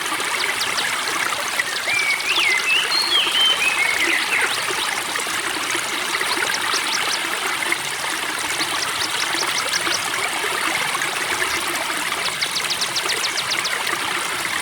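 Spring water trickling and babbling steadily. Songbirds call over it: a few whistled, bending notes early on, then three short runs of fast, high, ticking trill.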